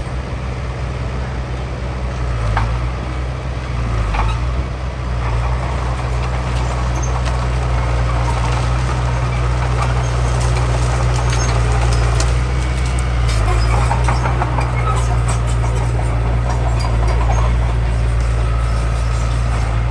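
Heavy diesel earthmoving machinery running steadily with a deep low drone, with a couple of sharp metallic knocks early on and a spell of clattering in the second half.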